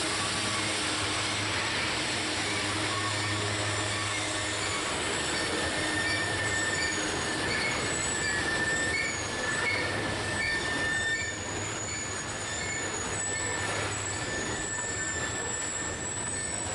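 Loaded coal cars of a Norfolk Southern freight train rolling past: a steady rush of steel wheels on rail, with high, wavering wheel squeal joining from about six seconds in.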